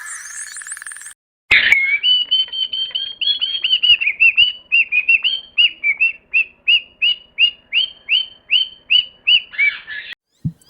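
Bird chirping: a long run of short, high, downward-sliding chirps, quick at first and then about two to three a second. Before it, a different high warbling sound cuts off about a second in.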